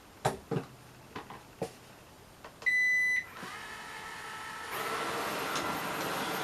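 A few short plastic clicks, then a robot vacuum cleaner gives one half-second beep and its motors start running, growing louder about a second and a half later.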